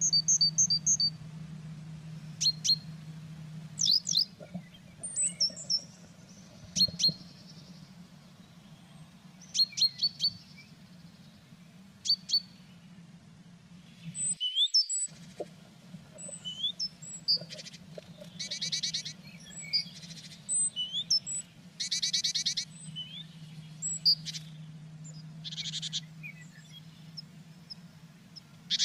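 Small songbirds calling: high, short chirps and quick up-and-down sweeps, then repeated buzzy trills in the second half. A steady low hum lies underneath, and everything cuts out for about half a second midway.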